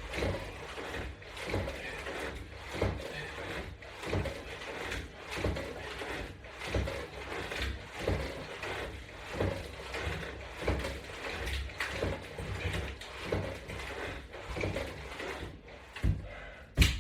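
Resistance bands and their Latch Bar attachment hardware creaking and clicking rhythmically, once with each repetition of a core exercise, about one stroke every second and a half.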